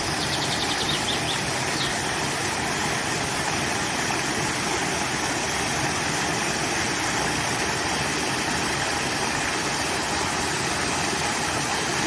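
Steady rushing of flowing water. A bird gives a short trill of rapid high notes in the first second or so, then one more note about two seconds in.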